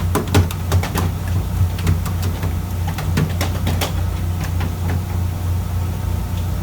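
Fishing boat's engine running steadily with a low hum, with scattered sharp clicks and taps through the first four seconds or so that then thin out.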